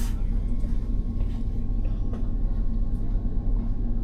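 Passenger train in motion: the steady low rumble of the running train, with a faint steady whine above it.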